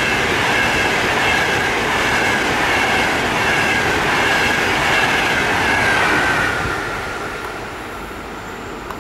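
Trenitalia ETR 500 Frecciarossa high-speed train passing at speed: a loud rush of wheel and air noise with a high whine. About six seconds in, the whine drops in pitch and the sound fades as the train moves away.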